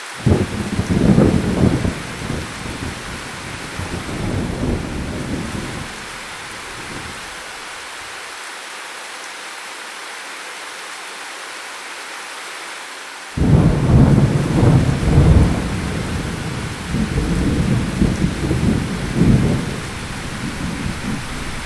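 Steady heavy rain with two long rolls of thunder: one breaks right at the start and rumbles away over several seconds, the second cracks in suddenly past the middle and rolls on in several swells.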